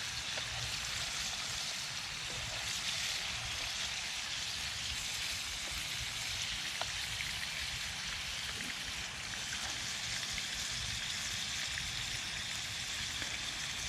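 Burger and bacon sizzling over a campfire, a steady hiss with a few faint ticks.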